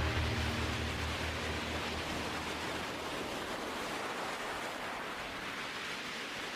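Steady rushing noise like sea surf, with the last low notes of background music fading out in the first two seconds.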